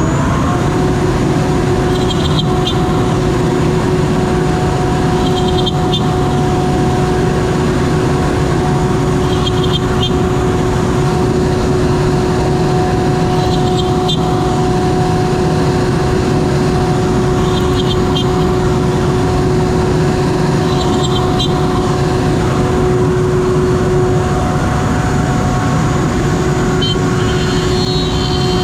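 CNC router spindle running with a steady whine over a loud, even rush of machine noise while milling beech boards. A short bright rattle comes through about every four seconds.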